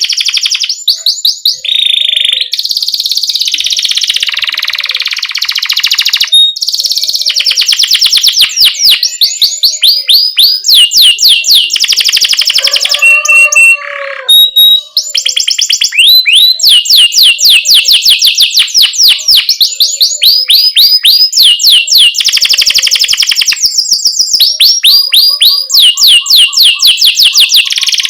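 Domestic canary singing a long rolling song: fast trills of repeated high, downward-sweeping chirps, broken by a few buzzy sustained rolls, with only brief gaps.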